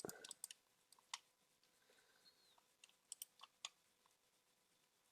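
Faint, scattered small clicks and taps: a quick cluster at the start, a single one about a second in, and a few more around three seconds in.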